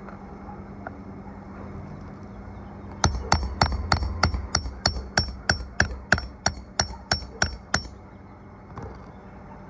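Hand hammer driving roofing nails while a shingle is replaced: a quick, even run of about sixteen strikes, about three a second, starting about three seconds in and stopping near the end.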